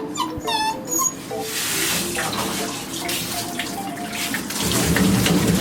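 A shower sprays water in a steady hiss that starts about a second in, over light mallet-percussion background music.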